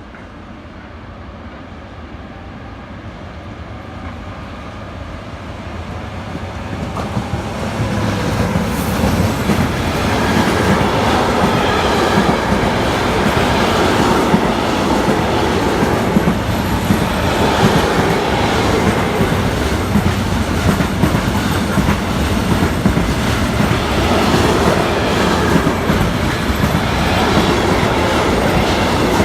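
A train approaching and passing through a station on rails: the rolling sound grows louder over the first ten seconds or so, then holds as a loud, steady run of wheels on the track with clicking over the rail joints and some wheel squeal.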